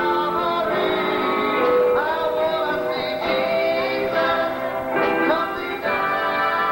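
A gospel group singing in harmony, men's and women's voices holding sustained notes, with instrumental accompaniment.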